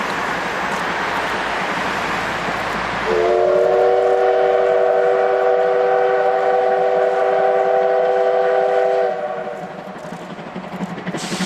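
Steam whistle of the C12 66 steam locomotive sounding one long blast of about six seconds, several notes together as a chord, starting about three seconds in. Before and after it a steady rushing hiss.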